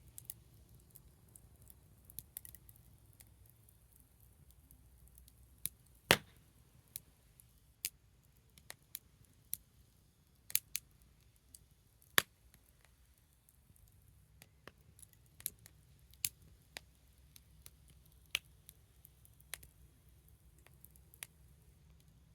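Small wood fire crackling: sparse, irregular pops and snaps over a low steady rumble, the loudest about six and twelve seconds in.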